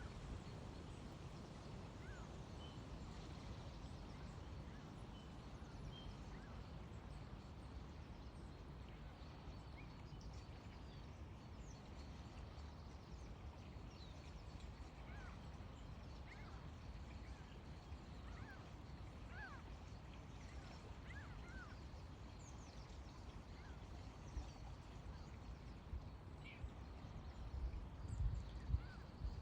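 Faint outdoor ambience: a steady low rumble with scattered faint, distant small-bird chirps, and a few louder low bumps near the end.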